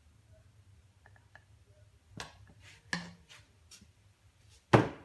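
Short clicks and knocks of plastic bottles being handled while soap is squirted into a foam cannon bottle, with one louder thump near the end.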